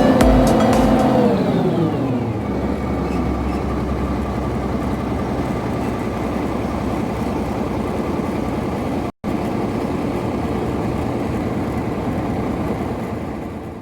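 Background music slides down in pitch and gives way about two seconds in to a steady engine running. The engine sound cuts out for an instant about nine seconds in and fades near the end.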